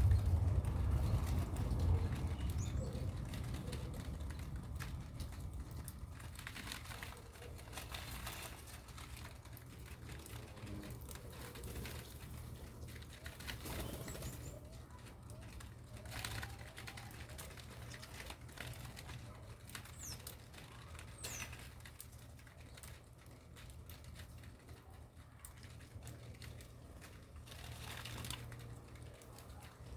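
Birds moving about: scattered clicks, scratching and wing flaps, with a few brief high chirps, over a low steady hum.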